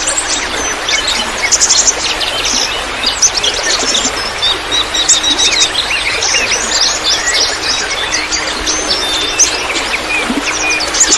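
Many small birds chirping and singing at once, a dense run of quick overlapping calls and trills, over a steady hiss of trickling water.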